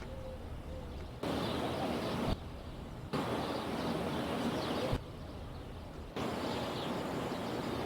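Steady outdoor background noise with a low rumble and hiss. The hiss drops out and returns abruptly three times, as if at edit cuts.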